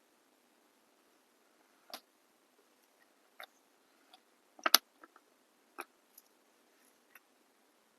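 Scattered light clicks and taps of small objects handled on a work surface, about nine in all, with the loudest a quick double click about halfway through.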